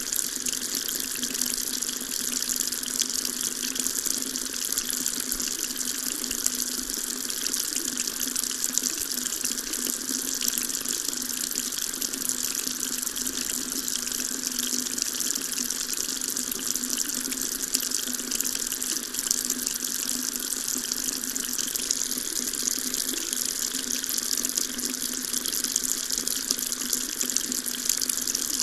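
Water tap running steadily, a continuous splashing stream of water with a bright hiss.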